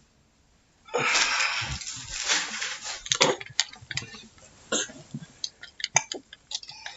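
Handling noise as a small child climbs over the person at the microphone: about two seconds of loud rustling about a second in, then scattered knocks and clicks.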